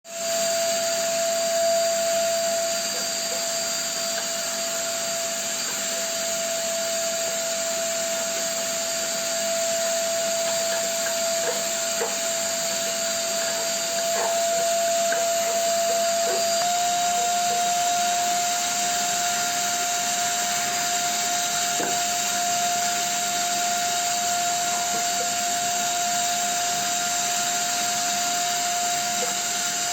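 Vacuum cleaner running steadily with a constant whine, its pitch stepping up slightly about halfway through, with a few faint scattered ticks.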